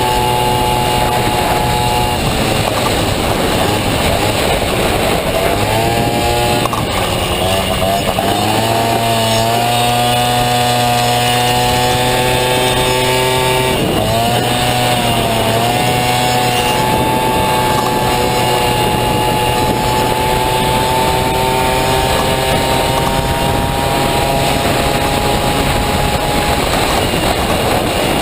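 Honda Dio scooter engine in a Honda Motocompo running hard at high revs, dropping off twice and climbing back up.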